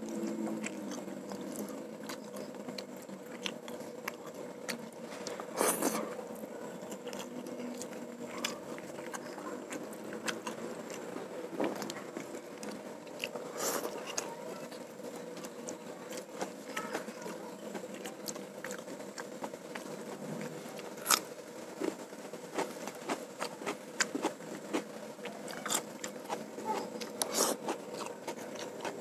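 Close-miked eating sounds of a man eating rice, fried noodles and fried chicken by hand: chewing with wet mouth clicks and lip smacks, a few louder sharp smacks, over a steady faint hum.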